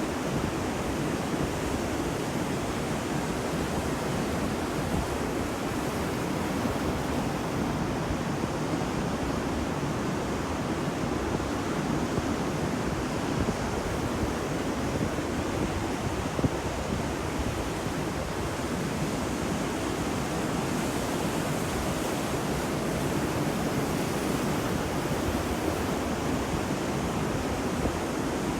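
Ocean waves breaking and washing on a beach, a steady, even surf noise with no distinct single crashes.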